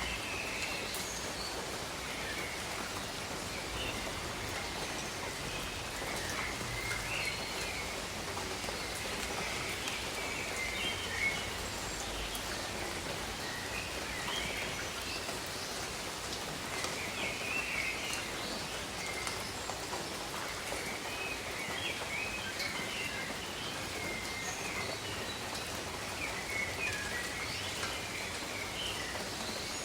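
Steady rain falling, with scattered drips and birds chirping in short bursts every few seconds.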